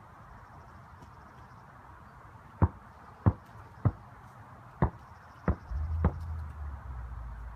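Basketball bounced on hard ground: six dull bounces about half a second to a second apart. A low rumble starts near the end.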